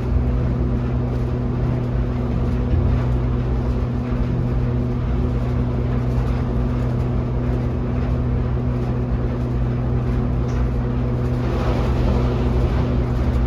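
Steady running drone of an Otis Hovair air-levitated, cable-driven people-mover tram car, heard from inside the car: a constant low hum over an even rush of noise. A hissing swell rises near the end.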